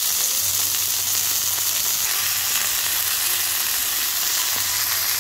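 Beef ribs frying in oil on a hot grill, a steady sizzle.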